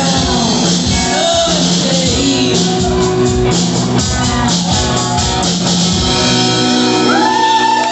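Rock band playing with a steady drum beat, bass and guitar, and a held high note coming in near the end.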